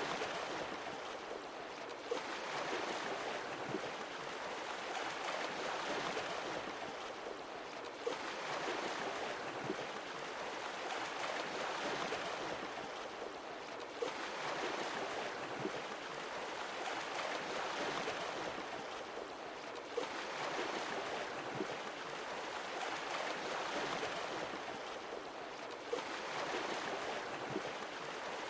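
Sea waves washing on a shore, the surf swelling and receding about every six seconds. A short click comes at the start of each swell.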